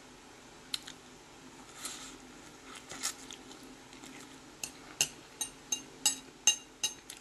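Close-miked eating of ramen noodles: wet chewing clicks and mouth smacks, a few at first, then a run of sharp clicks about two a second in the second half.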